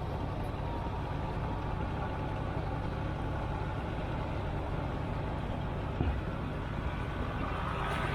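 Tractor engine running steadily with a low, even rumble, and a brief knock about six seconds in.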